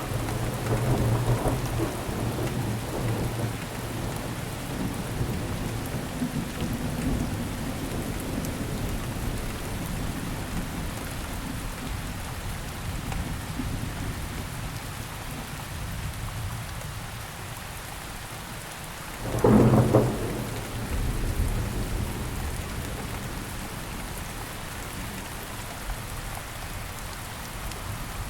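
Steady rainfall on surfaces with rolling thunder in the background. A rumble swells in the first few seconds, and a loud, sharp thunderclap comes about two-thirds of the way through, trailing off into low rumbling.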